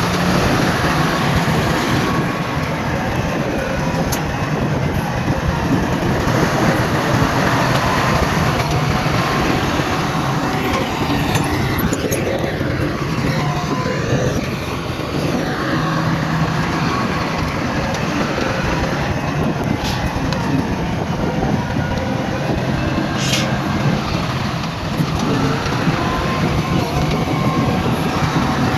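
Heavy diesel earthmoving machinery running steadily, a loud continuous rumble with clanking and a few short clicks.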